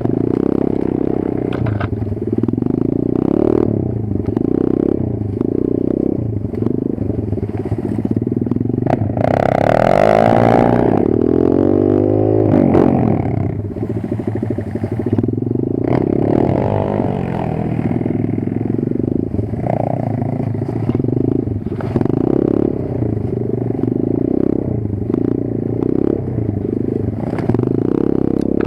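Kayo 140 pit bike's single-cylinder four-stroke engine under way, the revs rising and falling in short pulses about once a second, with one longer rev up and back down about ten seconds in.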